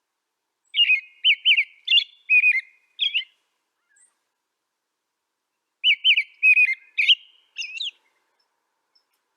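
A songbird singing two phrases of quick chirped notes, each lasting about two and a half seconds, with a silent pause of about two and a half seconds between them.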